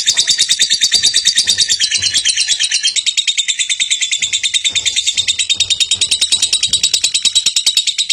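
Lovebird singing a long unbroken 'ngekek': a rapid, even, high-pitched chatter of many short notes a second, held without a pause.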